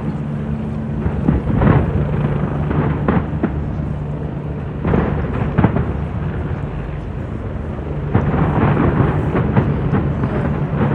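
New Year fireworks display: repeated sharp bangs and crackles over a continuous deep rumble, growing busier about eight seconds in.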